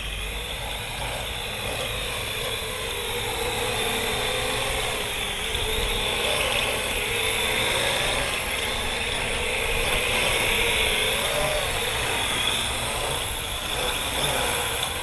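Parrot AR.Drone quadcopter's electric motors and propellers whirring in flight, the hum wavering up and down in pitch as the motors adjust to gusts, with wind rumbling on the microphone.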